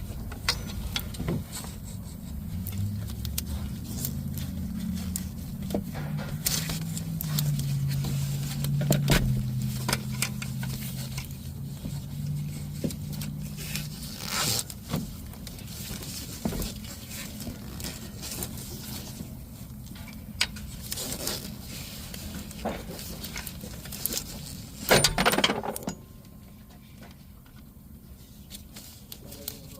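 Scattered metallic clicks, clinks and scrapes of tools or parts being handled, with a louder cluster about 25 seconds in, over a low hum that shifts in pitch during the first half.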